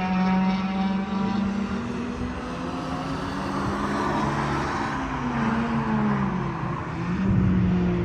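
Vehicle engine running under changing load, its pitch sliding down and back up, with a steady hiss mixed in through the middle.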